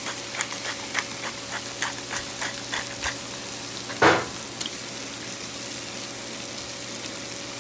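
Food frying with a steady sizzle on a flat-top griddle, with a hand pepper grinder clicking rapidly, about three to four ticks a second, for the first three seconds. A single brief knock comes about four seconds in.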